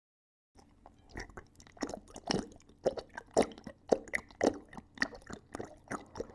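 A sound effect of irregular crunching clicks, starting about half a second in, with roughly two loud crunches a second and softer ones between.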